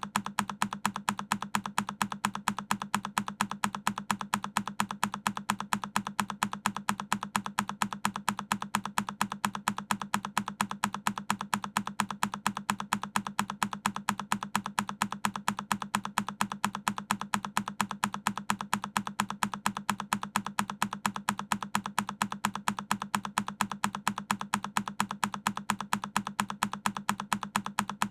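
A single key press on a Keychron K10 mechanical keyboard, looped so that the same click repeats over and over in quick, even succession.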